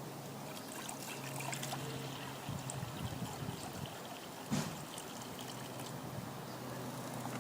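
Water pouring and trickling into a container, with one short thump midway.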